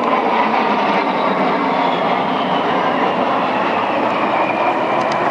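Twin turbofan jet engines of an A-10 Thunderbolt II passing, a loud steady rush of jet noise with a faint whine that slowly falls in pitch.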